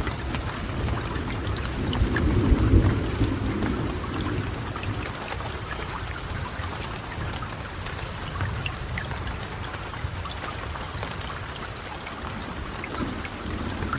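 Steady rain with scattered drops ticking close by. A low rumble of thunder swells about two to three seconds in and is the loudest part.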